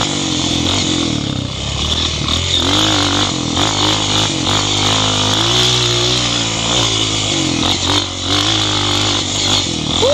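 Off-road dirt bike engines revving, their pitch rising and falling again and again as the throttle opens and closes.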